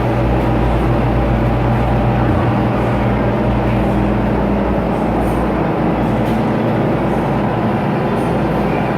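Steady, loud drone of a cruise boat's engines and hull running fast through the water, heard from the lower deck inside the hull; the lowest hum eases slightly a little over two seconds in.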